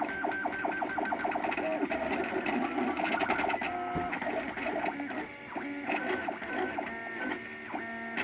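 MakerBot Thing-O-Matic 3D printer's stepper motors singing as the print head moves while laying down a layer. A rapid stutter of short tones at first gives way to longer held tones that shift in pitch with each move.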